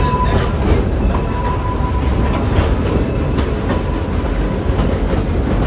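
Coal-fired steam train's passenger car rolling along the track, heard from on board: a steady rumble with scattered clicks of the wheels over the rails and a faint steady whine.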